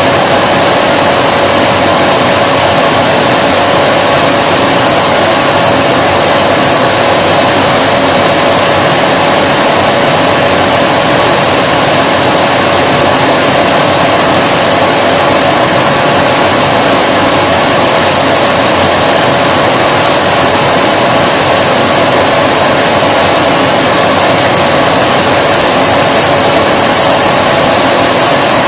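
Vacuum cleaner motor running continuously: a loud, even rush of air with a steady hum in it that never changes pitch or level.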